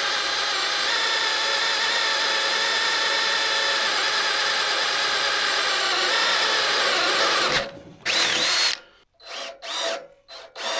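Cordless drill boring a 3/8-inch hole through steel, running steadily for about seven and a half seconds, then stopping and being run again in short bursts.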